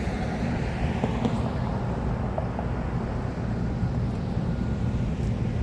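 Food truck's fan running: a steady low rumble with a faint high whine.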